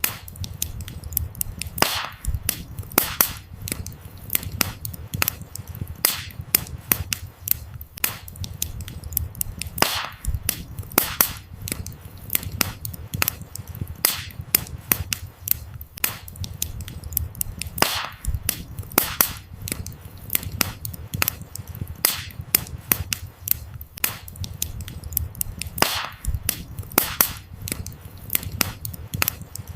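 Burning firewood in a campfire crackling, with frequent irregular sharp pops and snaps over a low steady rumble of the flames.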